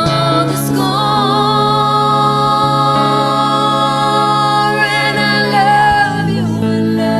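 A live band playing a slow ballad: a singer holds long notes with vibrato over steady piano and bass accompaniment.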